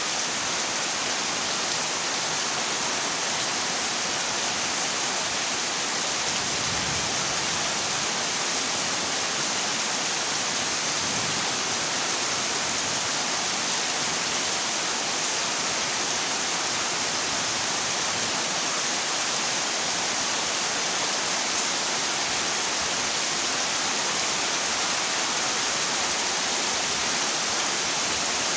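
Heavy rain drumming steadily on a corrugated zinc roof, a dense even hiss with no break.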